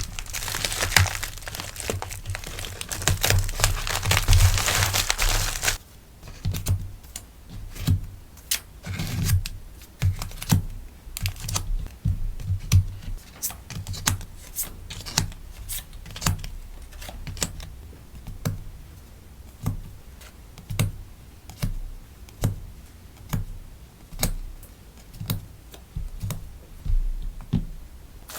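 Plastic packaging crinkling steadily while sticker orders are packed by hand, stopping about six seconds in. After that come light, separate clicks and taps, roughly one a second, some with a soft low thump.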